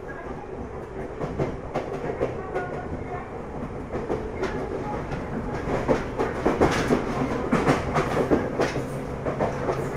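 Ryutetsu 5000-series electric train (KuMoHa 5001) running, heard from inside the car: a steady rumble with wheels clacking over rail joints, the knocks coming thicker and louder from about four seconds in.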